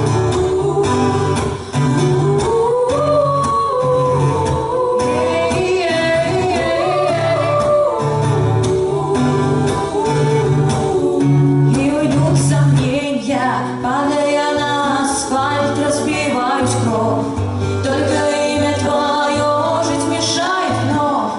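Women singing a song over an instrumental accompaniment with a steady bass line and drum hits.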